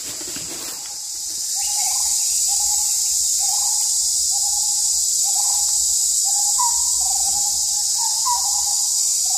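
A bird calling a steady series of short hooting notes, about one every three-quarters of a second, starting about a second and a half in, over a constant high-pitched insect drone.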